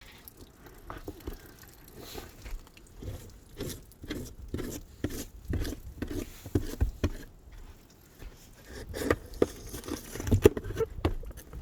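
Snow crunching in a steady run of short crunches, about two a second, growing louder near the end.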